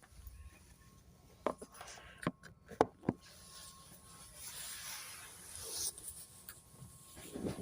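Quiet interior of a JR 205 series electric train car, with a few sharp clicks and knocks in the first few seconds and a faint steady whine after that.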